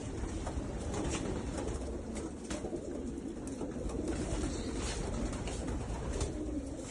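Many racing pigeons cooing together in an enclosed loft, a continuous overlapping murmur, with scattered light clicks and taps.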